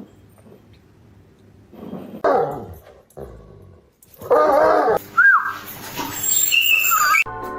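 A dog vocalizing in whining cries: a short one, then a louder, longer one, followed by a few higher squeaks. It cuts off suddenly near the end.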